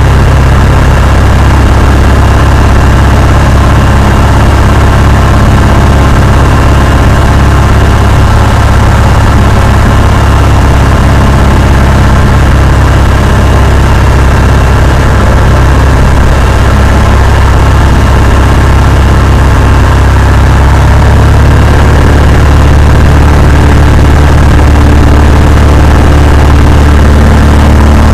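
Cessna 172's piston engine and propeller running with a loud, steady drone, shifting slightly in tone near the end.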